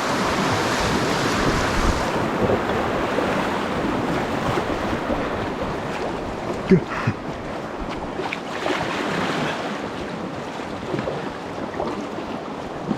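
Rushing water of a shallow stream riffle around a packraft, a steady rush that eases off gradually. A couple of short knocks come about seven seconds in.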